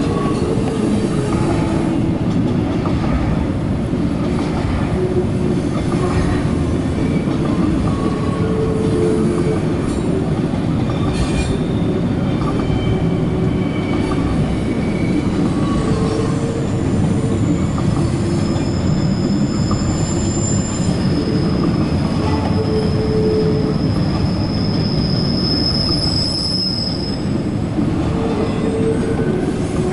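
CSX double-stack intermodal container cars rolling past on the rails in a steady, loud rumble. Wheel squeals come and go, with a long high squeal from just past the middle until near the end, as the cars come off the wye curve onto the main track.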